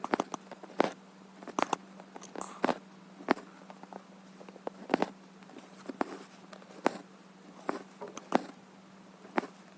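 Needle piercing and being pulled through cross-stitch fabric, a sharp click or pop with each stroke, coming irregularly about once a second over a steady low hum.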